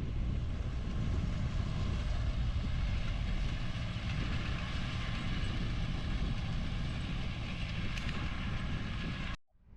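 Farm tractor running steadily while working the hay field with hay equipment, under a heavy, continuous low rumble.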